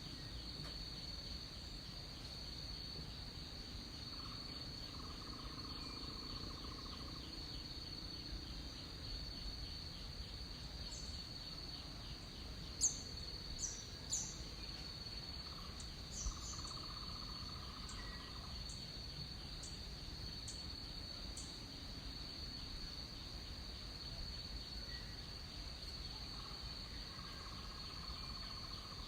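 Rainforest insect chorus: a steady, high, shrill drone with a faint rapid pulse. A lower buzzing call comes three times, and a few short, sharp high bird chirps stand out in the middle.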